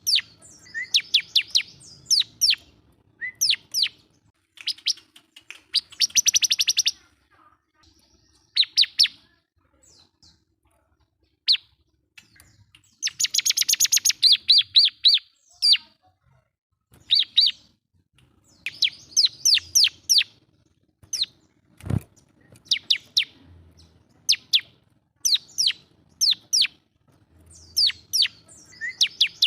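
Bar-winged prinia (ciblek) singing loudly: quick runs of sharp, high, downward-slurred notes, broken twice by a fast buzzing trill. A single sharp click comes about two-thirds of the way through.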